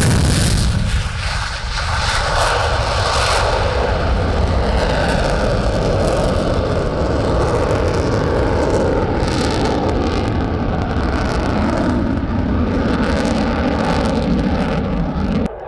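Loud, sustained jet engine noise from an F-16 fighter jet in flight, easing briefly a second or two in and cutting off suddenly near the end.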